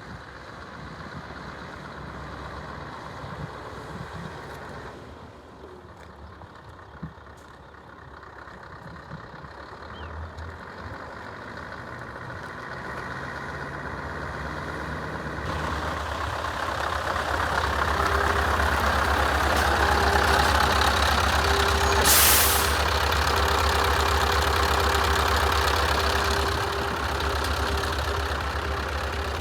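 Scania R500 truck's V8 diesel engine running, growing louder over the second half with a steady whine joining in. About three-quarters in there is one short hiss of released air, like an air brake.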